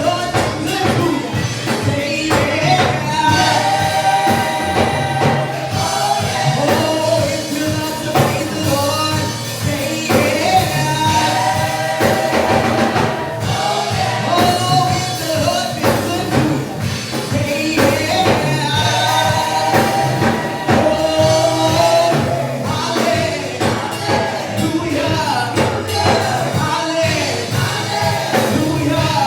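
Live gospel worship music: a choir singing over a band with bass and drums, and a tambourine.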